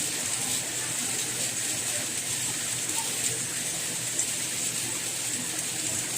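Steady rain falling: an even, bright hiss that keeps on without breaks.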